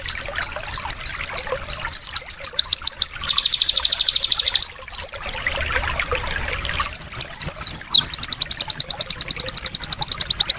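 White-eye (pleci) song: a string of short, high, rising chip notes runs into fast rattling trills, with trickling water underneath. There is a brief pause in the song near the middle, and the trills return for the last few seconds.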